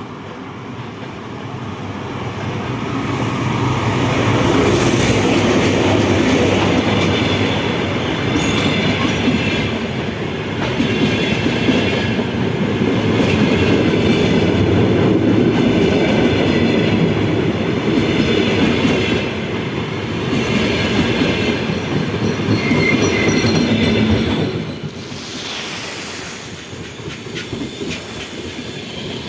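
Train passing close by, its wheels clattering over the rail joints in a steady rhythm with a faint high wheel squeal. It builds up over the first few seconds and drops away suddenly near the end.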